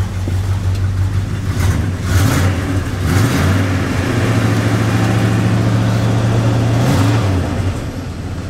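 1974 Dodge truck engine running shortly after a cold start, revved up about two seconds in, held at higher speed for several seconds, then let back down to idle near the end.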